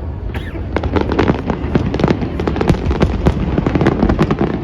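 Aerial fireworks going off in rapid succession: a dense run of sharp bangs and crackles over a continuous low rumble.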